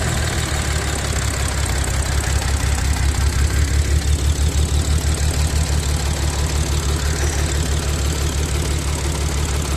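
Supercharged Audi V6 petrol engine idling roughly and noisily, its low hum pulsing in an uneven beat. It is shaking from a misfire, which the owner puts down to an intake air leak, misfiring or a fuel injector.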